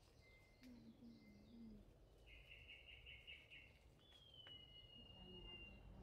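Faint outdoor ambience with distant birds calling: a short trill a couple of seconds in, then a long thin whistle that slowly falls in pitch near the end.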